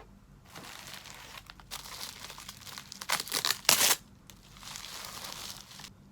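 Packaging crinkling as it is handled, in several stretches, with sharper, louder crackles a little past the middle.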